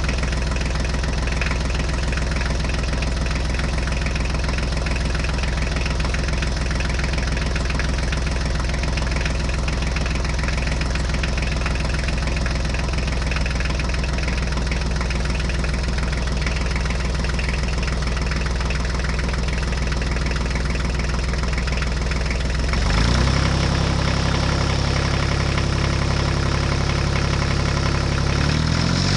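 Vehicle engine idling with a steady low note, changing to a different idle note about two-thirds of the way through and again near the end.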